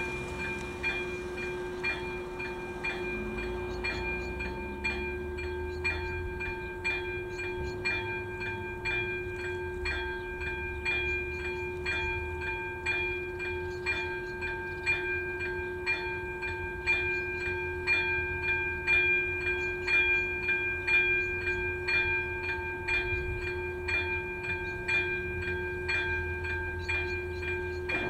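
Electronic level-crossing bell (AŽD E-bell ZV02) ringing steadily, about two strokes a second, each stroke with a held ring: the crossing's warning is active for an approaching train. A low rumble grows somewhat louder in the second half.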